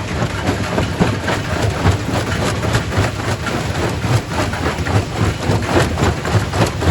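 Primary rock crusher running under load: a steady heavy low hum from the machine with continual irregular knocking and clattering of rock being broken.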